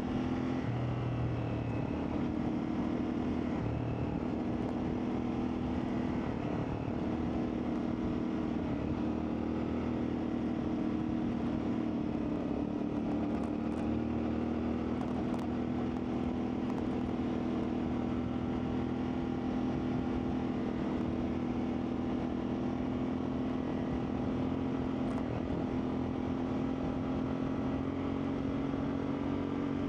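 CFMoto 450MT's parallel-twin engine running steadily as the motorcycle is ridden, its pitch rising and falling slightly with small throttle changes.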